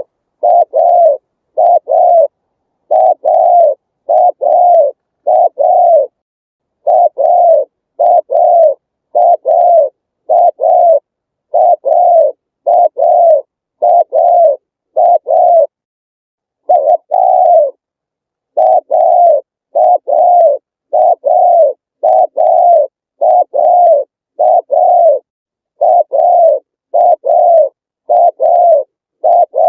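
Spotted dove cooing its song: low, even coos about twice a second in short runs of two or three, with silent gaps between the runs and one longer pause near the middle.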